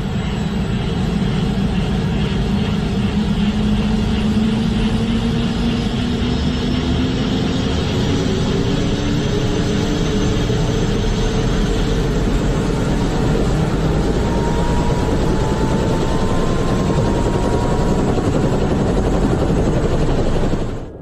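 Airbus H130 T2 helicopter's Arriel 2D turboshaft engine and main rotor spooling up after start: a steady, loud rush with whines that slowly rise in pitch. It cuts off suddenly near the end.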